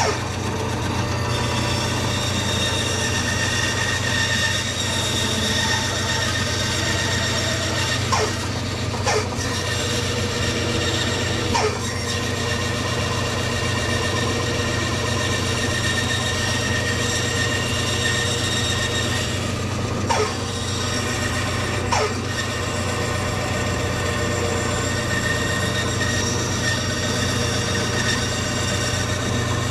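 Bandsaw running and cutting through a guitar body blank of teak with a pine cap: a steady motor hum under a whining blade. A few brief clicks come around eight to twelve seconds in and again around twenty seconds in.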